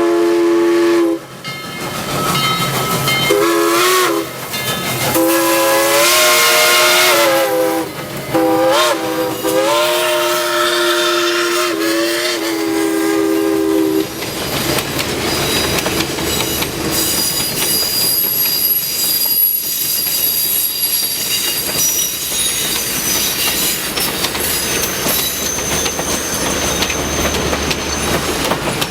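Steam locomotive whistle, Southern Railway 2-8-2 No. 4501, blowing several long blasts with its pitch bending, until about halfway through. Then the train runs past with a steady rolling noise and thin, faint high squeals.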